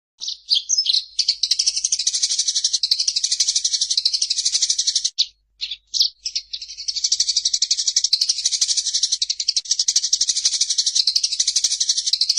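Eurasian tree sparrow giving a fast, unbroken rolling chatter of high chirps: the excited 'fighting' call. It runs in two long stretches with a short, broken pause about five seconds in.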